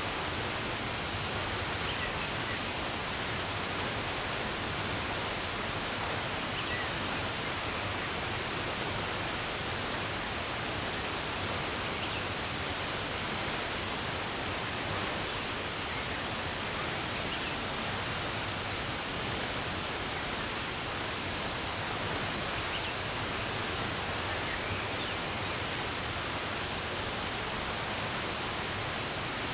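Steady rushing of running water, with a few faint, scattered bird chirps.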